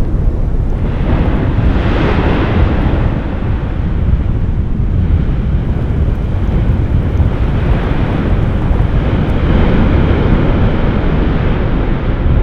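Manaro Voui volcano erupting: a loud, continuous deep roar that swells about two seconds in and again near ten seconds.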